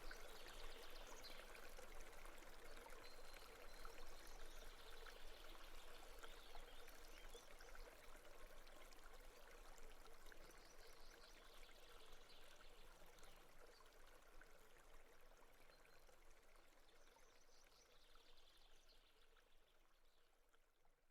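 Faint flowing stream, a steady water sound that fades out toward the end.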